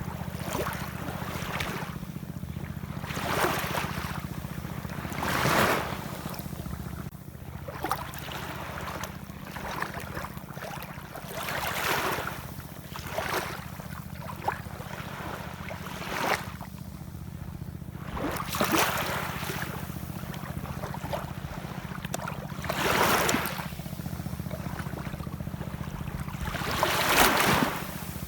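Ocean waves washing in, each surge of hiss swelling and fading over a second or two, about every two to four seconds with the biggest near the end, over a steady low rumble.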